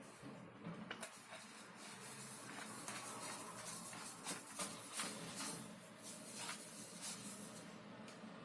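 Hands handling parts at a workbench: a rustling scrape with scattered sharp clicks, busiest from about a second in to about seven seconds.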